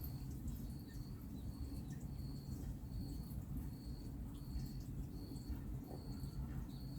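Steady low rumble of distant highway traffic. Over it, an insect chirps a single high note in short, evenly spaced pulses, a little more than one a second.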